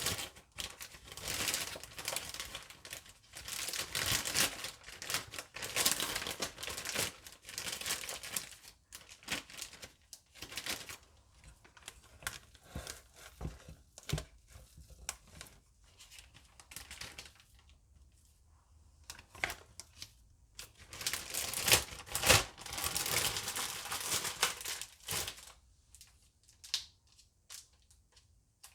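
Plastic bag of manicotti filling crinkling in irregular bursts as it is handled and squeezed, loudest a little past two-thirds of the way through.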